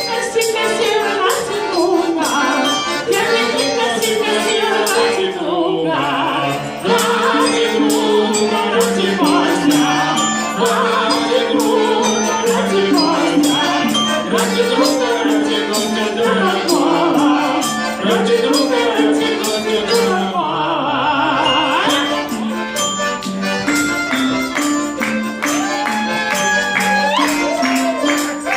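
An ensemble playing a Russian folk tune: a melody moving in steps over a steady, fast percussion beat.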